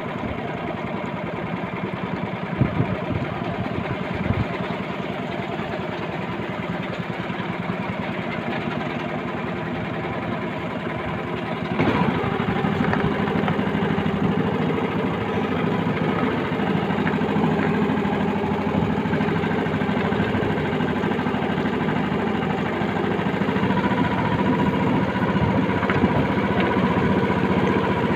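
A small engine running steadily, getting louder about twelve seconds in.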